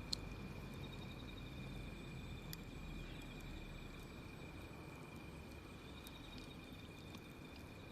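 Wood campfire burning quietly, with a few sharp crackles and pops, the loudest just after the start. A steady high insect trill, like crickets, runs underneath.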